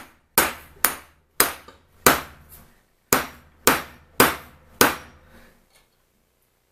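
Hammer blows on metal, about eight sharp strikes with short ringing tails, often in pairs, stopping near the end. They are an attempt to drive a pin into the vise, and the pin does not start into its hole.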